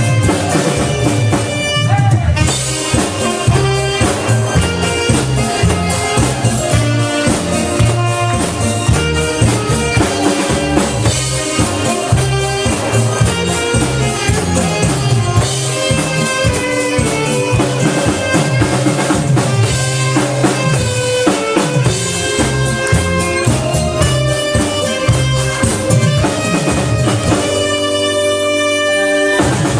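Saxophone and drum kit playing a song together, with held melody notes over a steady drum beat. The drums drop out briefly near the end.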